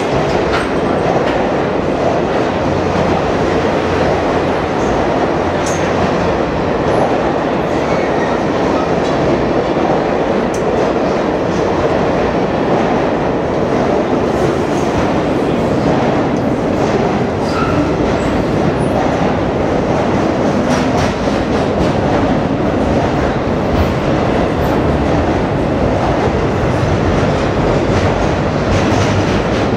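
A long train's cars rolling steadily past in an underground station: a continuous rumble of steel wheels on the rails with occasional faint clicks.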